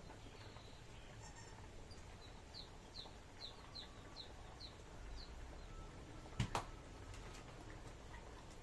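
A bird calling a quick run of about eight short high chirps, then two sharp knocks in quick succession about six seconds in.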